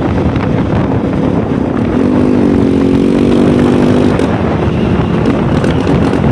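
Motorcycle engine running over a heavy low rumble, its steady engine note clearest for about two seconds in the middle.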